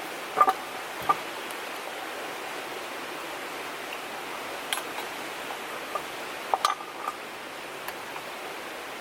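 Steady rush of river water, with a few short sharp clinks and taps scattered through it, the loudest about half a second in.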